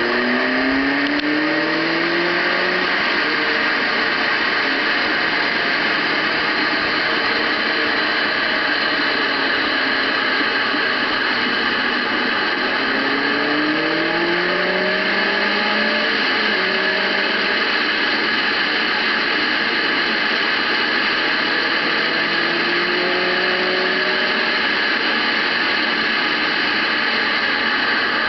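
Heavy motorcycle engine pulling under load as the bike rides, its pitch rising three times as it accelerates, with a steady rush of wind noise over it.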